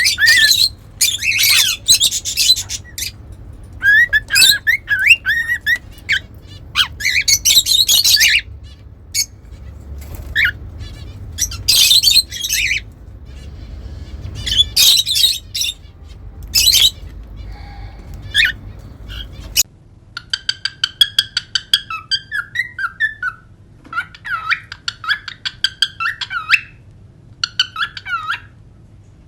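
Cockatiels calling and whistling in loud, shrill bursts, then, after a cut about two-thirds through, a run of quick, fluttering chirps and whistles.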